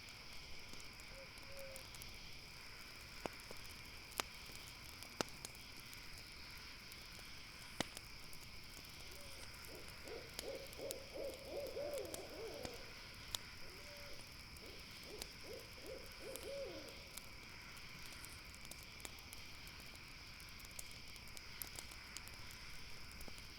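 Night forest ambience with a campfire crackling and popping in sharp single snaps, over a steady high-pitched chorus of night insects. An owl calls in a rapid run of short hooting notes about ten seconds in, and again in a shorter run around fifteen seconds in.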